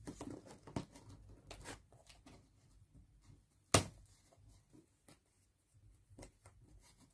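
Hands handling and tearing open shipping packaging, with scattered short rustles and crinkles and one sharp snap or knock a little under four seconds in.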